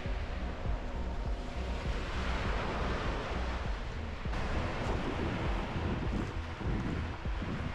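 Small waves breaking and washing up the beach, swelling and easing every few seconds, with wind buffeting the microphone in a low rumble.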